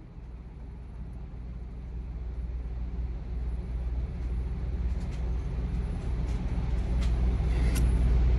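Low, steady mechanical hum that grows steadily louder, with a few light ticks in the second half.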